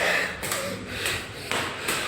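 Footsteps climbing stairs, a step about every half second, with heavy breathing from the climber.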